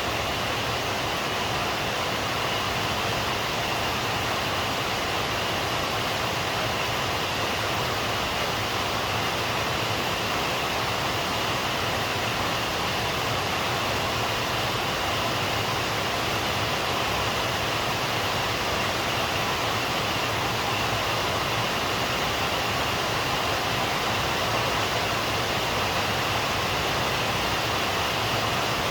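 Steady rain falling, an even hiss without separate drops or thunder.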